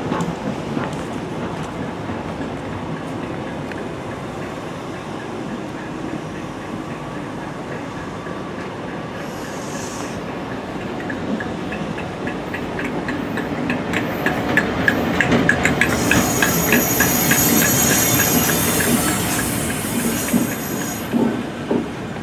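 Passenger train running through a station on the main line: a steady rumble of wheels on rail, then quick rhythmic clicking of wheels over rail joints and points that grows louder, with a high-pitched squeal or hiss for several seconds in the second half.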